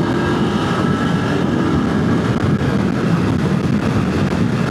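A motorcycle ridden hard at speed, with wind rushing over the rider's microphone and the engine running underneath.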